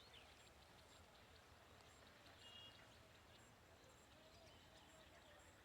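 Near silence with faint small-bird chirps, including a short high double note about two and a half seconds in.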